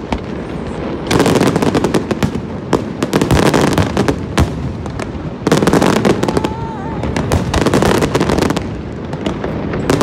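Aerial fireworks going off in quick succession: dense crackling and bangs that come in waves every second or two.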